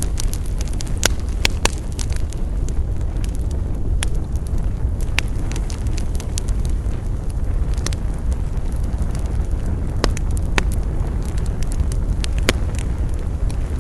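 Wood campfire burning, with irregular sharp crackles and pops, about ten in all, scattered over a steady low rumble.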